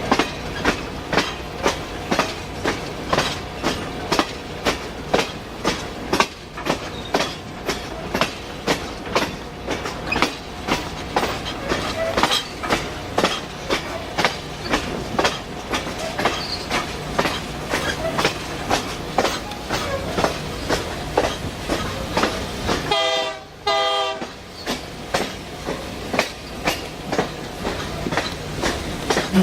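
Passenger train rolling along at steady speed: the wheels click over the rail joints in an even clickety-clack, about two or three clicks a second, over a constant running rumble. A brief tone sounds once near the end.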